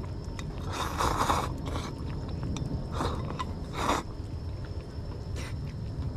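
Someone chewing a mouthful of motsunabe (offal hotpot), with a few short, louder noisy sounds about one, three and four seconds in, over a steady low rumble.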